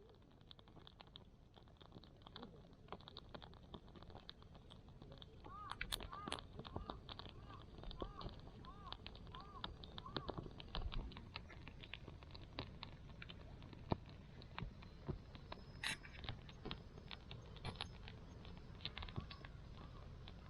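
Small wood fire crackling and popping in a camp wood stove, faint sharp snaps throughout. Midway a bird calls a quick run of about nine repeated rising-and-falling notes.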